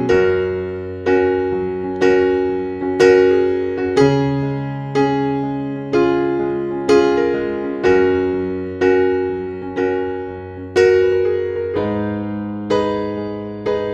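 Background piano music: a slow, gentle melody with notes struck about once a second and left to ring out.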